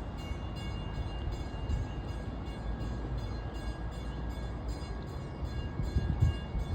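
A train rumbling across a railroad bridge, a steady low rumble with heavier low thumps near the end.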